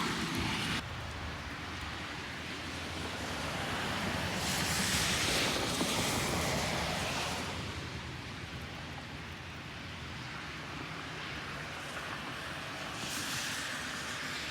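Wind blowing across the microphone, a steady rushing noise with a low rumble that swells twice, about a third of the way in and again near the end.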